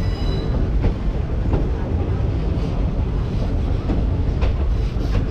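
DEMU train running on the track: a steady heavy rumble with occasional clicks of the wheels over rail joints.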